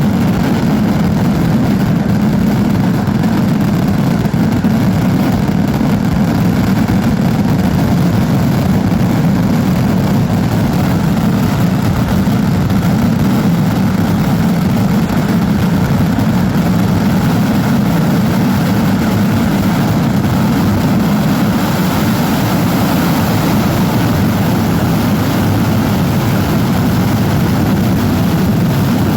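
Dense fireworks barrage with the blasts merging into one steady, loud roar and no single bang standing out.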